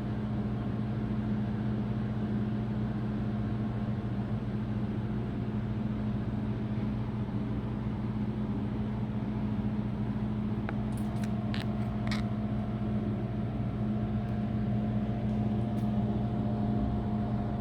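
A steady mechanical hum at a constant pitch, with a few light clicks about two-thirds of the way through.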